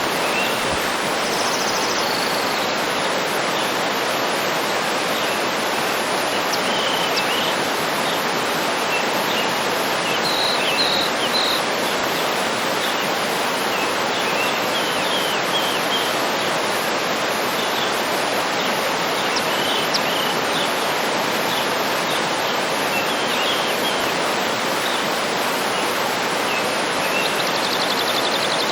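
Waterfall rushing steadily, with birds chirping faintly over it: short scattered calls, a run of three notes about ten seconds in and a buzzy trill at the end.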